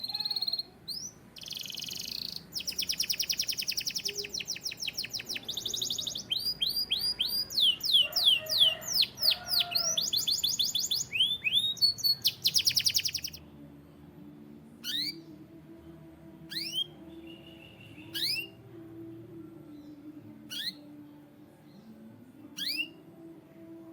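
Canary singing a rapid song of trills and fast repeated sweeping notes for about thirteen seconds, then giving single short downward chirps every second or two.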